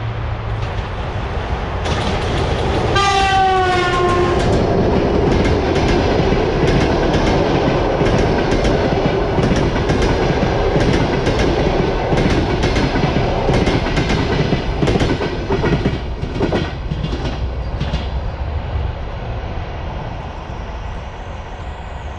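EP1M electric locomotive sounding one horn blast about three seconds in, its pitch sliding down as it comes past. Its passenger cars then roll by with wheels clicking over the rail joints, the rumble easing off near the end.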